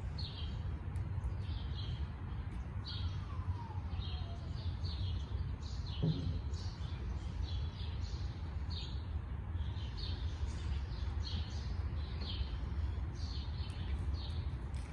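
Small birds chirping over and over, about two short chirps a second, over a steady low rumble. One dull thump about six seconds in.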